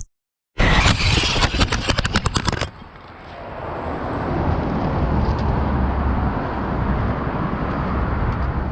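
About two seconds of rapid, sharp clattering clicks, then after a sudden drop a steady low rumble of a moving vehicle, its road and wind noise building up over a couple of seconds and then holding.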